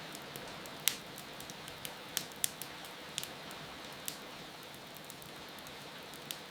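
Wood fire crackling with irregular sharp pops, the loudest about a second in, over a steady hiss of rain.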